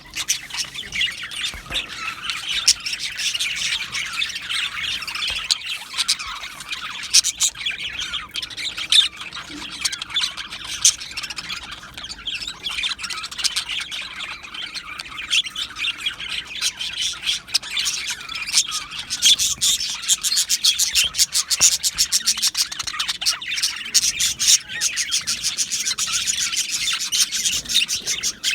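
Budgerigars chirping and chattering continuously, many quick overlapping chirps and squawks with no pause.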